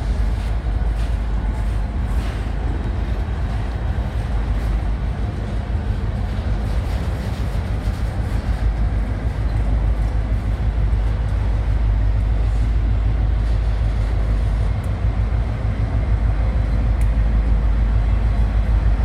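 Train cars rolling slowly past as the train backs up: a steady low rumble with a few faint clicks.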